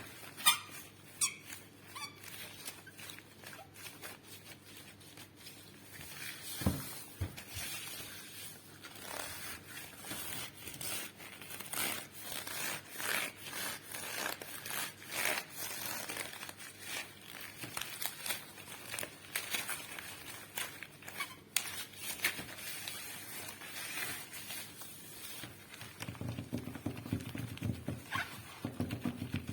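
Rubber-gloved hands rubbing, squeaking and scratching against a microphone, with many short clicks and scrapes. Near the end it turns to denser low thuds on the microphone.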